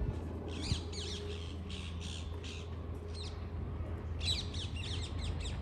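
Birds calling in two quick chattering bursts, one in the first half and one near the end, over a steady low rumble.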